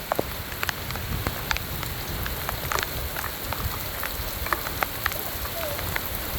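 Heavy rain pouring down in a steady hiss, with many sharp, irregular ticks of drops striking close by.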